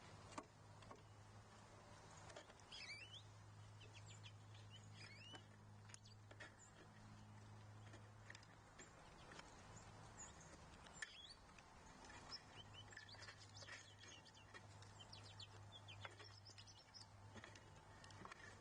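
Faint, scattered chirps and calls of small wild birds at a feeder, with a few sharp ticks, over a low steady hum.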